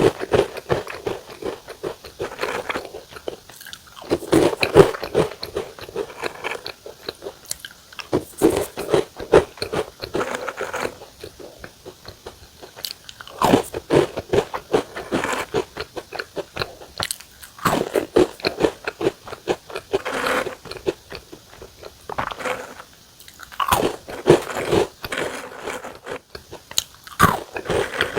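Close-miked crunching and chewing of small, crisp Korean egg biscuits (gyeran gwaja), in bouts of dense crackly bites every few seconds.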